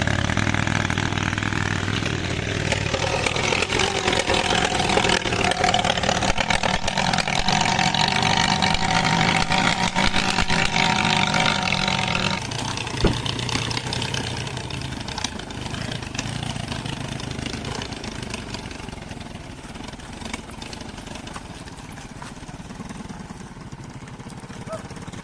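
Motorcycle engine running steadily under a heavy load. About halfway through its sound drops suddenly, then grows gradually fainter.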